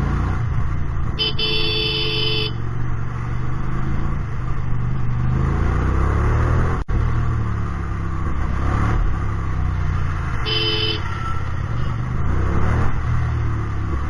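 Hyosung GT250R's 250 cc V-twin with an aftermarket Solfer exhaust, revving up and easing off several times while riding in traffic. A vehicle horn sounds twice, briefly about a second in and again later.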